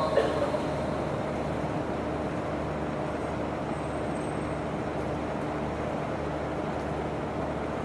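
Steady room hum and hiss with a faint constant low tone. The tail of a chanted voice dies away in the first half second.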